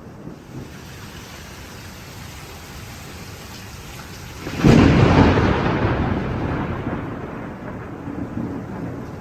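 Thunderstorm: steady rain falling, then a sudden thunderclap about halfway through that rolls on and slowly fades over the next few seconds.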